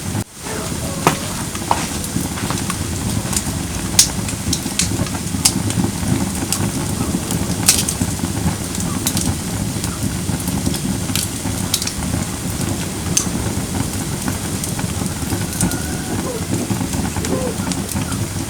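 Firewood burning in a campfire: a steady low rush of flames with sharp crackles and pops scattered throughout, the loudest about four and eight seconds in.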